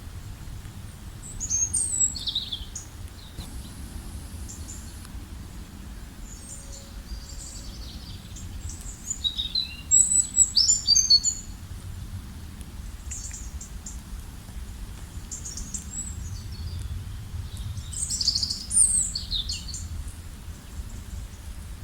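Several songbirds singing and chirping in short high phrases, busiest about ten seconds in and again near the end, over a steady low rumble of wind.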